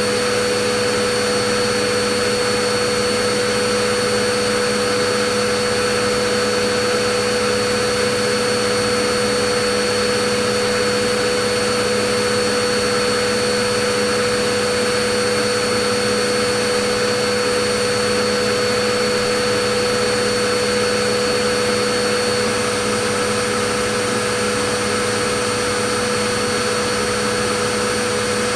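Vacuum cleaner motor running steadily, a constant whooshing rush of air with a steady whine.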